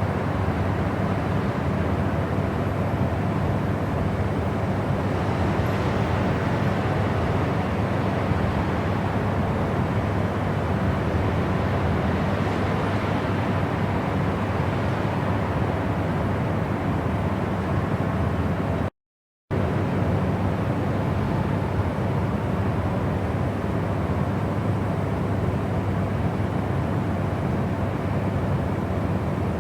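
Steady white-noise-style rushing hiss, heaviest in the low end and unchanging. It breaks off for about half a second around nineteen seconds in.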